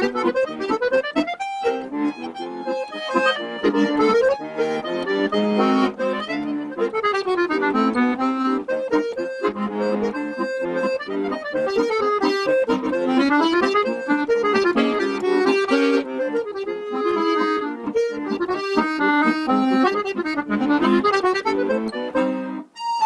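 Accordion playing a lively melody with quick runs of notes up and down, breaking off briefly near the end.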